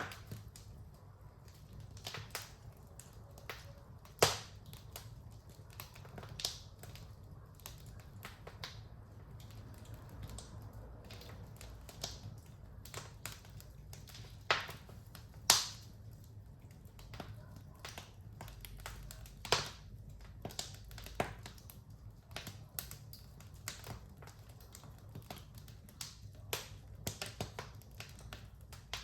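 Wood fire crackling with irregular sharp pops, a few much louder ones about four seconds in and around the middle, over a low steady rumble.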